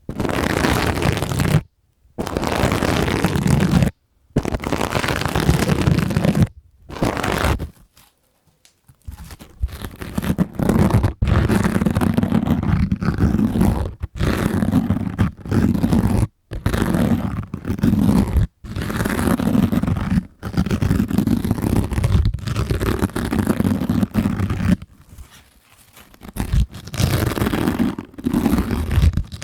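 Sponges squeezed and rubbed close against a microphone: a run of scratchy, squishy strokes with a heavy low rumble, broken by several brief silent gaps.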